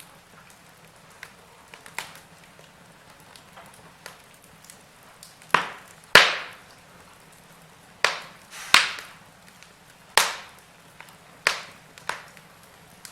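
Wood fire in a fireplace crackling: sharp pops and snaps over a faint steady hiss, scattered at first, then a run of loud pops in the second half.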